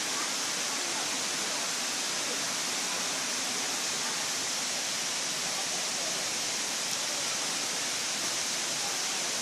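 Waterfall's water rushing and splashing in a steady, even hiss.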